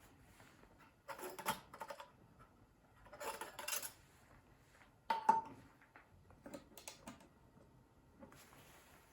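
Thin titanium panels of a hinged mini fire pit clinking and rattling as they are handled and folded. There are two clusters of rattles, then a single sharp ringing clink about five seconds in, and a few lighter taps after it.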